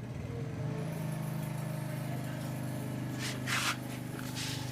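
Steady low mechanical hum, with two short hissing bursts about three and a half and four and a half seconds in.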